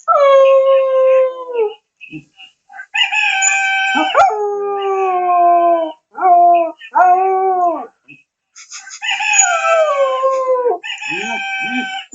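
Cocker spaniel puppy howling: a series of long, drawn-out howls, most sliding down in pitch, with two short arched yelps in the middle.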